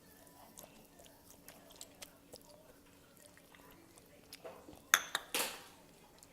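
Close-miked eating of buldak ramen noodles: soft chewing with small scattered mouth clicks. About five seconds in there is a sharp loud click, then a short, loud noisy burst.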